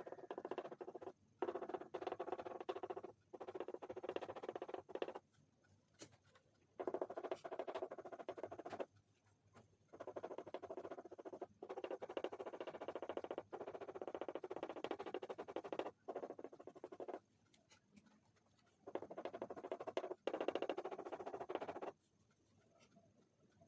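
Oil pastel scribbling on paper in stretches of one to three seconds, broken by short pauses as the colour is laid on.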